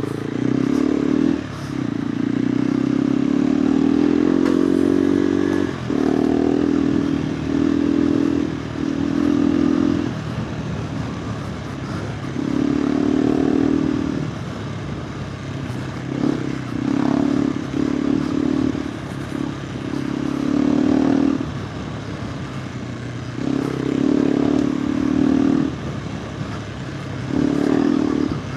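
KTM 390 Adventure R's single-cylinder engine through a Norifumi Whoops slip-on exhaust, ridden on a trail in about a dozen bursts of throttle with quieter stretches between. The longest burst rises in pitch, about two to six seconds in.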